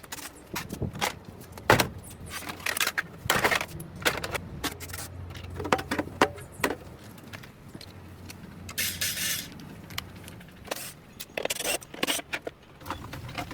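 Metal tools and parts clinking, clattering and knocking in irregular bursts over a low steady hum, with a short hiss about two-thirds of the way through.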